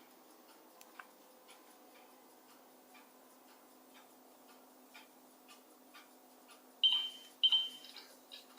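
Faint steady ticking, about two ticks a second, then near the end two short electronic beeps from a Dimplex Cassette 400 water-vapour electric fireplace insert acknowledging its remote control.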